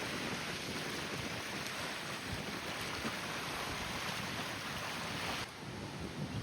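Wind rushing over the microphone of a moving bicycle, a steady hiss that drops abruptly about five and a half seconds in.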